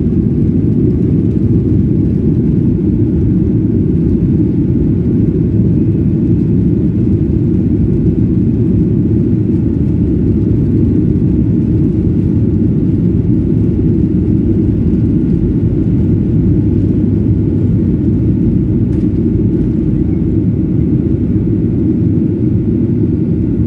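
Gol Boeing 737-800's CFM56-7B jet engines at takeoff power: a loud, steady low rumble that holds without a break, with faint steady whining tones above it.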